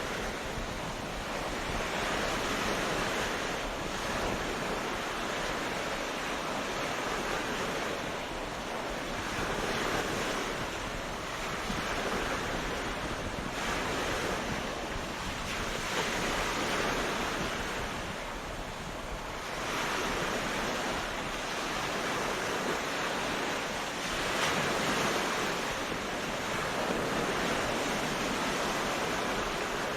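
Ocean waves breaking and washing up a beach, a continuous surf wash that swells and ebbs every few seconds, with wind on the microphone.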